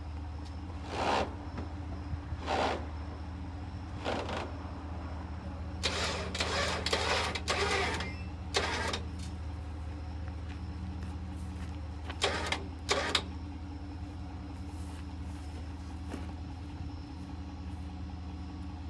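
A vehicle engine idling steadily, with short knocks and clanks at irregular intervals over it, several bunched together a few seconds in.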